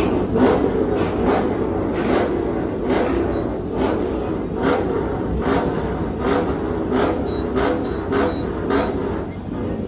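Car engine running steadily, with a sharp tap repeating a little faster than once a second.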